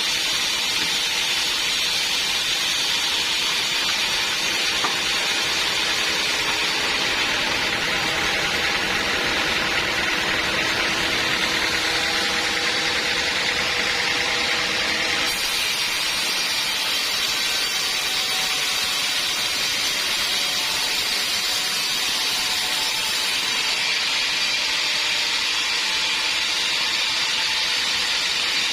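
Sawmill band saw running steadily: a high, even hiss over a low machine hum. The sound changes abruptly about fifteen seconds in.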